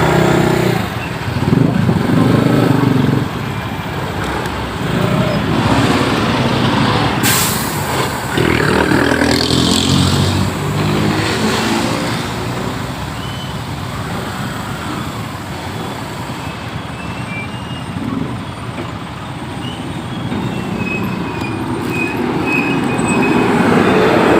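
Heavy road traffic at close range: the engines of large trucks and other vehicles running in a jam. There is a sharp click about seven seconds in.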